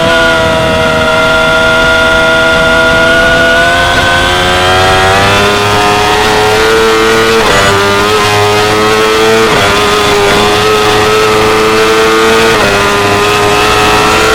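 2016 Yamaha R6's 599 cc inline-four engine running hard at high revs, its pitch climbing slowly, then holding high with three short dips in pitch about halfway through and later on.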